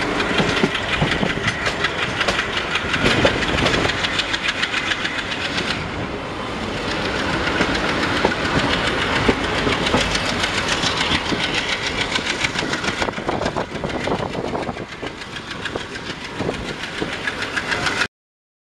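Passenger train running at speed behind an ALCO WDG3A diesel locomotive, heard from a coach: steady wheel clatter over the rails with the diesel engine working under load, black smoke pouring from it. The sound cuts off suddenly near the end.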